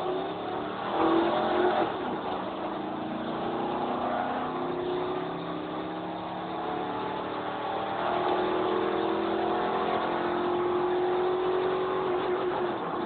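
Chevrolet Z71 truck engine heard from inside the cab, accelerating under load with the pitch climbing steadily and stepping back at gear changes.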